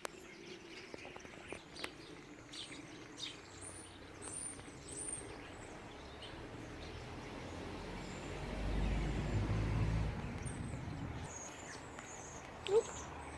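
Small birds chirping in short high calls outdoors after rain, with a low rumble that swells and fades about eight to ten seconds in.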